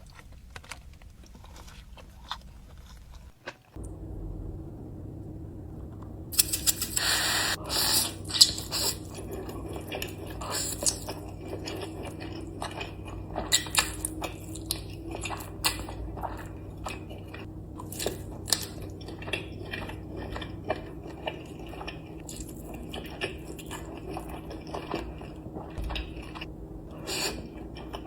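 Close-miked eating: crisp crunching bites and chewing, with many short mouth clicks over a steady low hum.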